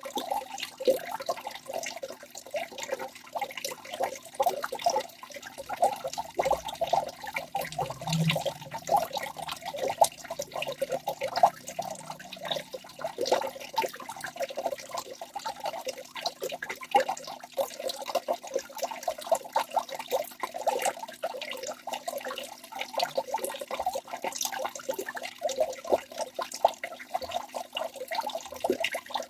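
Waterfall water splashing and gurgling continuously, a dense irregular patter of small splashes with no let-up.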